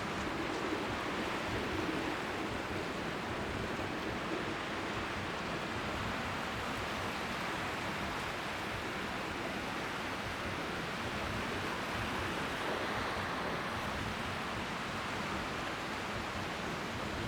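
Strong sea wind making a steady rush of white noise, with small waves lapping faintly on the shore beneath it.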